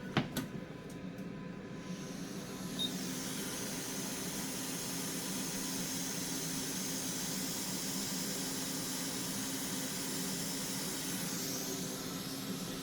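Hot air rework station blowing a steady hiss of hot air with a faint low hum. It starts about two seconds in, after a few light clicks, and is heating the solder on the graphics card's power connector pins from the underside to reflow it.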